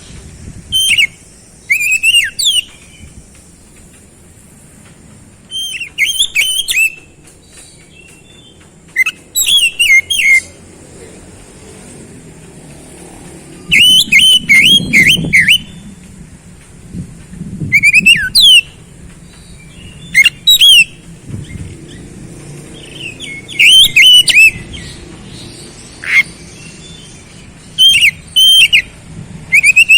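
Oriental magpie-robin (kacer) singing: loud, short phrases of sharp whistled notes, mostly falling in pitch, repeated every one to few seconds with short pauses between.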